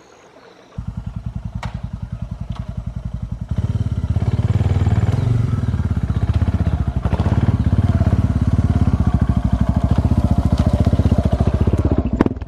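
Suzuki DR650's single-cylinder four-stroke engine starts suddenly about a second in and runs with an even, rapid beat. About three and a half seconds in it gets louder as the bike moves off, and it keeps running steadily.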